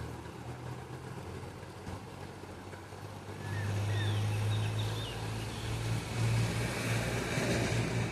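A motor vehicle's engine drones low and steady, growing louder about three and a half seconds in as it comes close and passes. Faint short chirps of small birds sound behind it.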